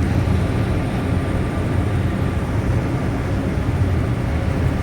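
Steady low rumble and hum inside an SFO AirTrain people-mover car standing at a station, with a faint steady tone above it.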